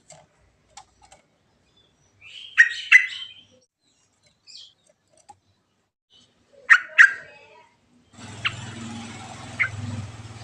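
Trucuk (yellow-vented bulbul) calling in short, sharp doubled bursts, about two and a half seconds in and again about seven seconds in. Near the end a steady low hum with hiss comes in for about two seconds, with two more faint calls over it.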